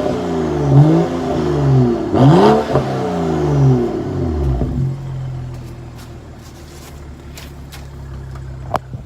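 BMW 535i's turbocharged 3.0-litre straight-six, running through a muffler-deleted 3-inch exhaust, revved up and down several times, then dropping to a steady idle about five seconds in. A single sharp click near the end.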